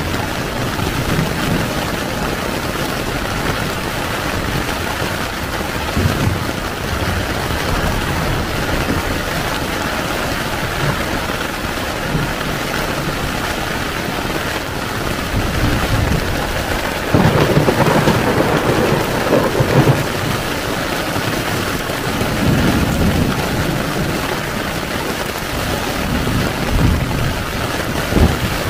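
Heavy rain falling steadily on a tent, with thunder rumbling several times; the loudest, longest roll comes about two-thirds of the way through.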